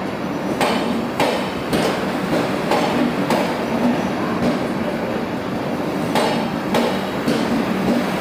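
Shatabdi Express passenger coaches rolling along the platform as the train arrives: a steady rumble and hum, with the wheels clicking over rail joints in an even rhythm of a little under two clicks a second.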